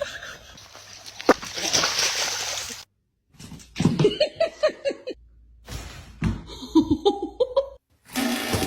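Water splashing for about three seconds, then, after abrupt cuts, short clips of voices in quick, choppy bursts like laughter.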